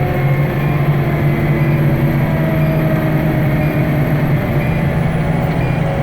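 Pierce Arrow XT fire engine's diesel engine running steadily under road noise as the truck drives, with a low, even drone whose higher tones drift slowly lower.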